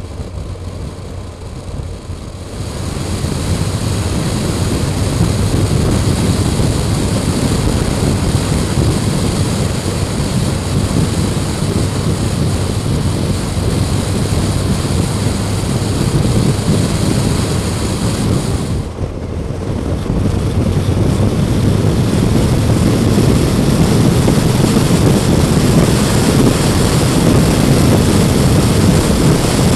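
Motorcycle riding along: engine running under a steady rush of wind noise, which swells about two and a half seconds in and dips briefly about two-thirds of the way through before building again.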